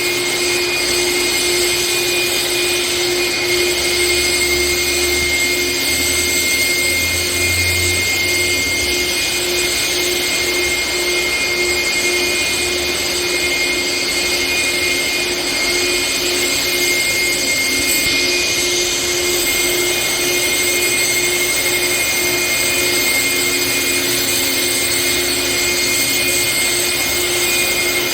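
A motor-driven machine running steadily, a constant hum over a hiss, with a low rumble that swells for a few seconds early on.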